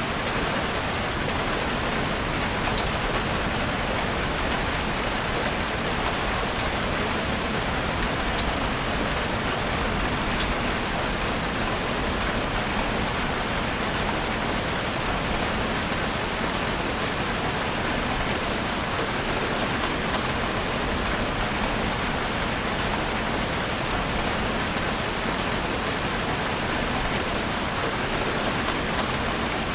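Heavy rain falling steadily on a roof: a dense, even hiss with fine patter of individual drops.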